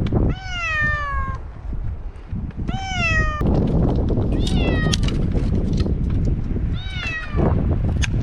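A domestic cat stranded up a tree meowing four times, each call falling in pitch, with a few seconds between calls.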